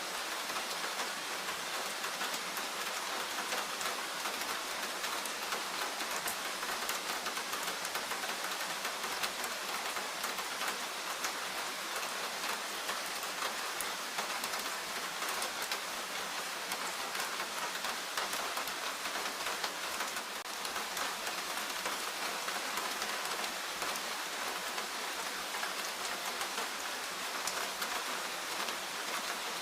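Steady rainfall in a forest, an even hiss of many fine drop patters on leaves and ground, with no thunder.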